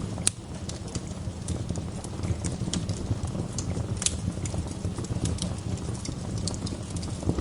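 Wood burning in a fireplace, crackling and popping over a low steady rumble, with a sharp pop just after the start and another about four seconds in.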